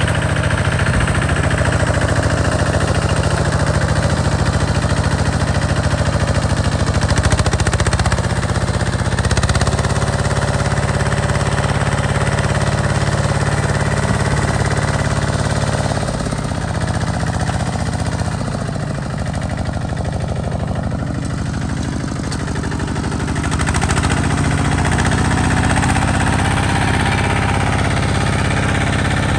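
A small farm tractor's engine runs under load while ploughing, with a steady knocking chug. Its speed dips and picks up again a few times.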